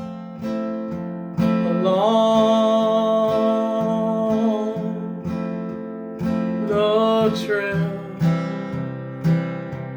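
Acoustic guitar strumming a steady rhythm. A long held melody note slides up into pitch about two seconds in, and a shorter one comes around seven seconds.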